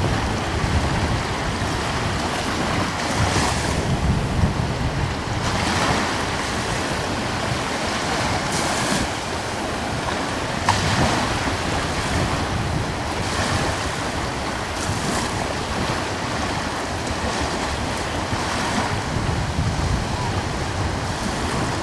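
Small ocean waves washing ashore in surges every two to three seconds, with a breeze buffeting the microphone as a low rumble underneath.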